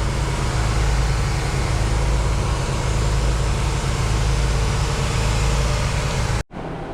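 Lint-collection vacuum used for dryer vent cleaning running steadily, a deep rumble under a broad rush of air. Near the end it cuts off abruptly, leaving a quieter steady hum.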